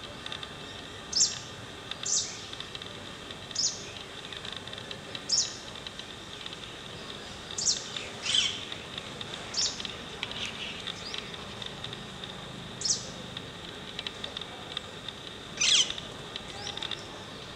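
A small bird giving short, thin, high calls, about nine of them at irregular gaps of one to three seconds. A couple of the calls are longer and fall in pitch. Under them runs a faint, steady high hiss.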